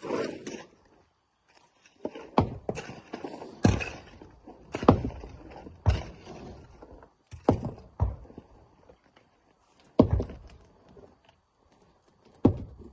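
Rocks being handled: about eight single hard thuds of rock impacts at uneven intervals of one to two seconds, with rustling noise between them.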